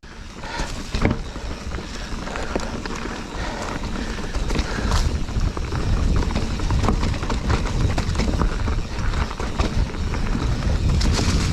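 Mountain bike rolling over a rocky trail: tyres crunching and the bike rattling with scattered clicks and knocks, and a low wind rumble on the camera microphone that grows louder as speed builds.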